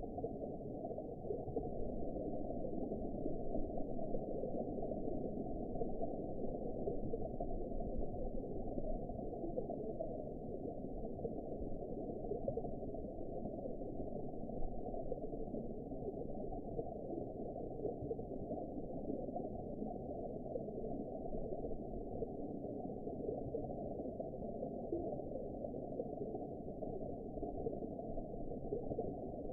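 Steady, muffled underwater ambience: an even, low rushing wash with no treble and no distinct events.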